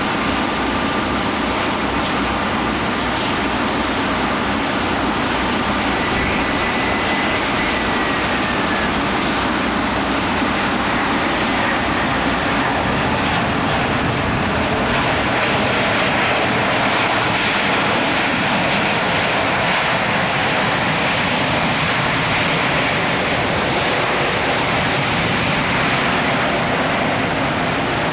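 Airliner jet engines running with a steady, loud noise over heavy rain. A faint whine drifts slightly in pitch during the first third.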